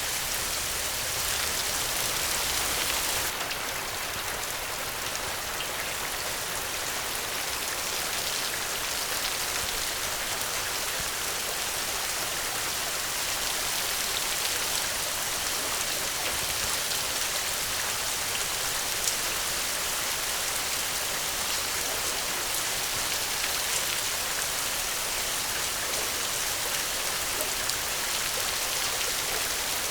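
Steady rain falling: an even, dense hiss with scattered sharper ticks of single drops. The low rumble under it eases slightly about three seconds in.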